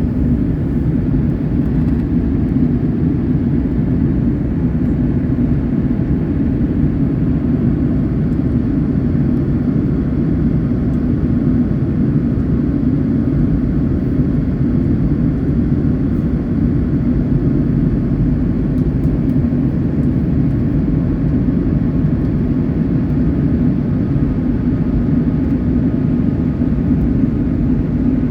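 Steady, deep drone of an airliner cabin in flight: engine and airflow noise, unchanging throughout.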